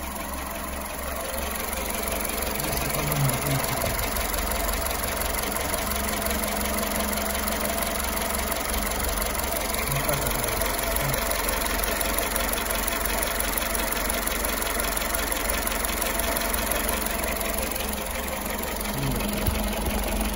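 Skoda Fabia 1.4 petrol engine idling with a light knock and rattle, after its bent valves were replaced. The owner suspects worn bearing shells.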